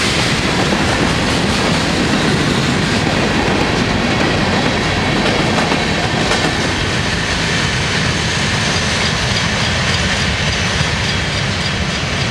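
Florida East Coast freight train's cars rolling past steadily, with wheels running over the rails.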